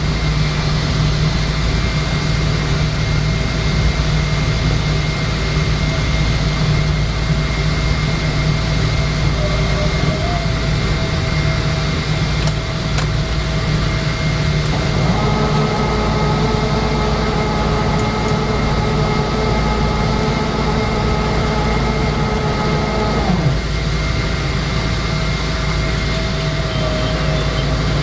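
Steady low rumble of a Boeing 777-200 airliner on the ground after landing, heard from inside. A humming tone joins about halfway through, holds for about eight seconds, then stops.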